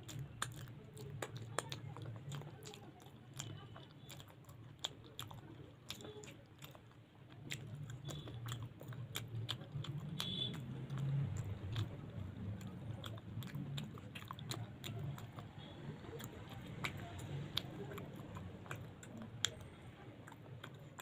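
A person chewing and biting mouthfuls of luchi (fried puffed flatbread) with potato curry, with many small mouth clicks throughout. The chewing grows louder from about eight seconds in.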